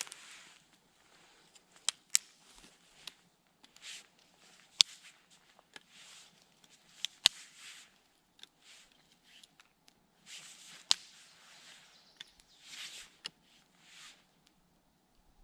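Campfire crackling, with a dozen or so sharp snapping pops scattered irregularly through it and short patches of rustling between them.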